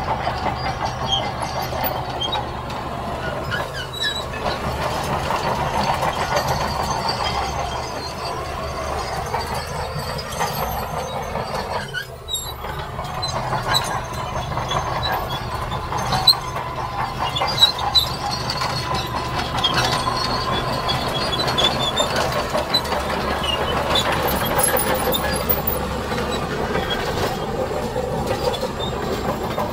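Heavy diesel earthmoving machinery running steadily, with scattered short metallic squeaks and a few sharp clanks. The level dips briefly about twelve seconds in.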